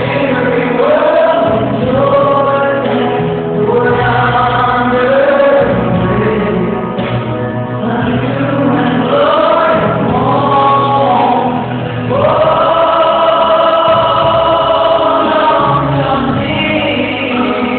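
Choir singing gospel-style Christmas music with accompaniment, the voices moving through short phrases and then holding one long chord for several seconds about two-thirds of the way through.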